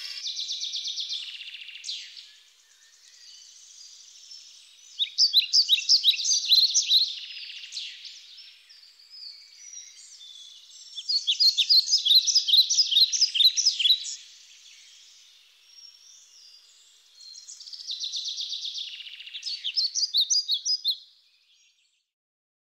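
A songbird singing in four bursts of rapid high chirps, each a few seconds long, with quieter stretches between; the song stops near the end.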